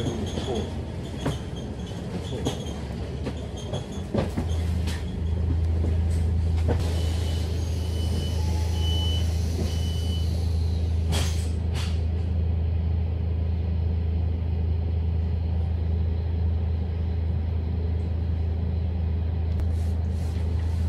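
Scania K310UD double-decker bus engine running steadily as a low drone, which gets louder about four seconds in and then holds. Around the middle there are a few short high beeps, followed by a brief burst of hiss.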